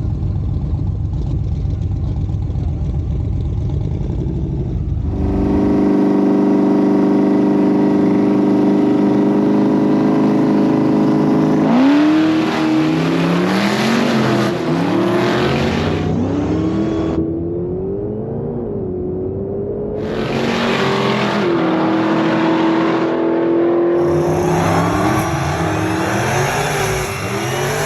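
Drag car engine at full throttle: a low rumble, then held at steady high revs, then accelerating with the pitch climbing and dropping several times through gear shifts.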